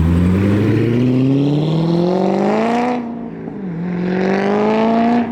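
Corvette ZR1's V8 accelerating hard, revs climbing steadily through one gear, then shifting up about three seconds in and climbing again through the next gear.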